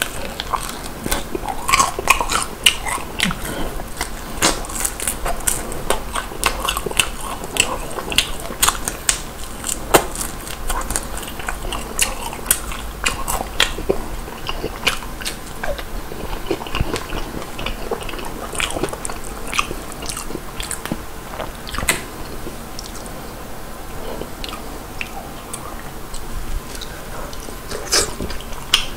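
Crispy Korean old-style fried chicken being bitten and chewed, a run of irregular sharp crunches and crackles, several a second.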